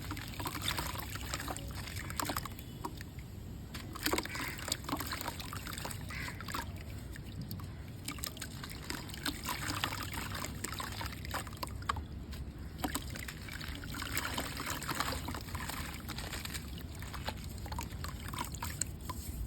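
Gritty red mud crumbling in water: crunchy crackles throughout, with wet trickling and sloshing.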